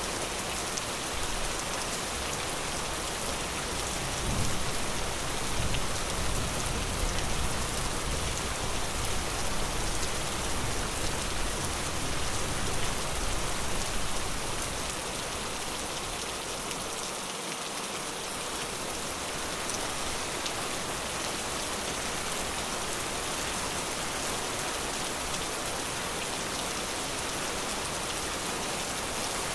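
Steady rain falling in a forest, pattering on surfaces. A deeper rumbling swell underlies it from about four seconds in until about fourteen seconds in.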